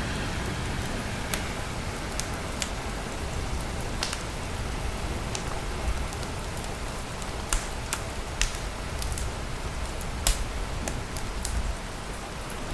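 Steady rain with the crackle of a wood fire: sharp pops scattered through it, a few louder ones in the middle and near the end.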